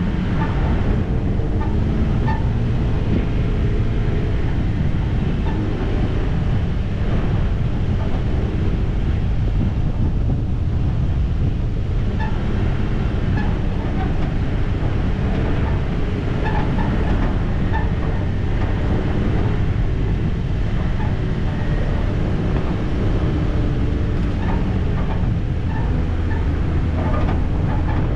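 Off-road vehicle driving over a rough dirt trail: a steady low engine and tyre rumble, with scattered small rattles and knocks throughout.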